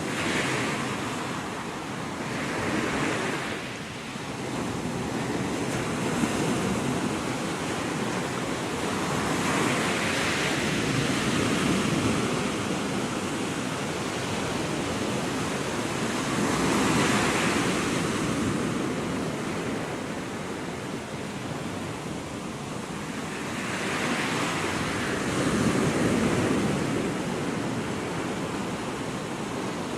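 Gulf of Mexico surf: small waves breaking and washing up the sand, the rush swelling and fading four times, with some wind on the microphone.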